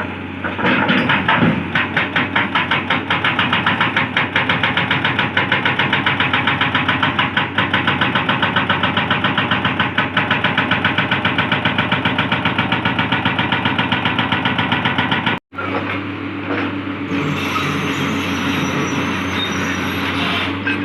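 Hydraulic rock breaker on a Hitachi 200-class excavator hammering hard rock in a rapid, steady rhythm of blows over the diesel engine. The hammering cuts off suddenly about fifteen seconds in, and the engine keeps running with a high hiss.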